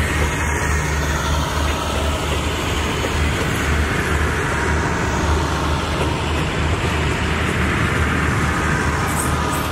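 Passenger coaches of a long train rolling past, a steady rumble of wheels on rails with a few faint clicks near the end.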